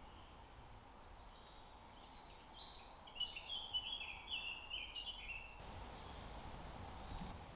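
A songbird singing one quick phrase of short high notes that jump up and down in pitch, lasting about three seconds from a couple of seconds in, over a faint steady woodland background.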